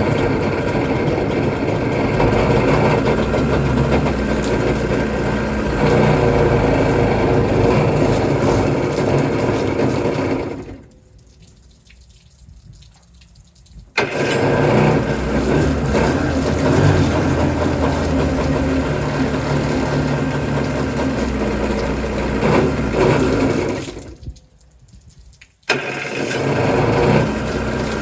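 Jet-ski engine in a jon-boat conversion running on choke. It dies about ten seconds in, restarts with a sudden burst about four seconds later, dies again near 24 seconds and is restarted. The owner traces the stalling to fuel starvation at the fuel on/off/reserve valve, with no fuel reaching the filter.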